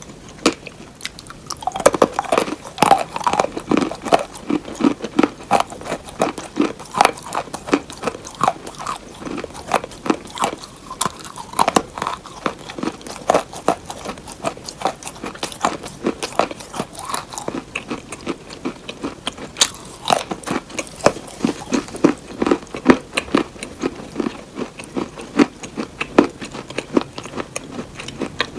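Crunchy hard cheese being bitten and chewed close to the microphone: a continuous run of crisp cracks and crunches.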